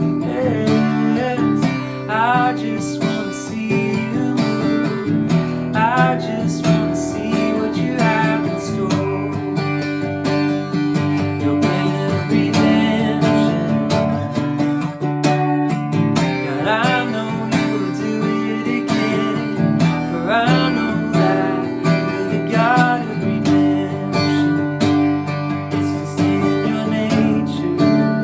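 Acoustic guitar strumming chords continuously.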